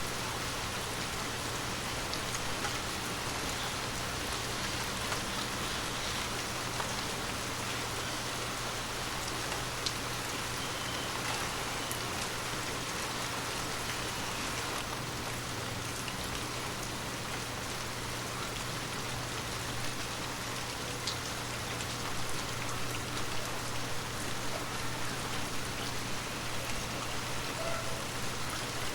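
Heavy rain falling steadily, a dense even hiss with scattered sharper drops striking close by. A steady low hum runs underneath.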